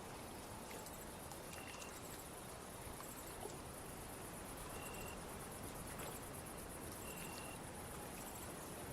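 Night ambience of crickets chirping in a steady, pulsing high trill, with a short lower note every two to three seconds over a faint, even hiss.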